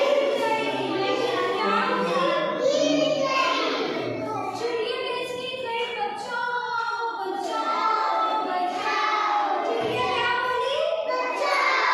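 A group of young children's voices singing or chanting in unison, in a sing-song rhythm with held notes.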